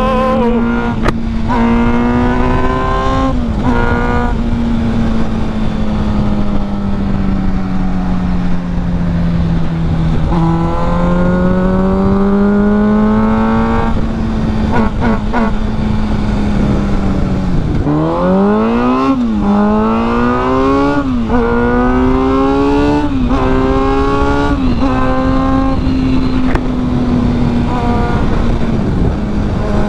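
2023 Honda Grom's 125 cc single-cylinder engine pulling the bike along on the road. It holds steady revs at first, climbs in revs from about a third in, then past halfway accelerates through several quick upshifts, each a rising pitch that drops back at the shift.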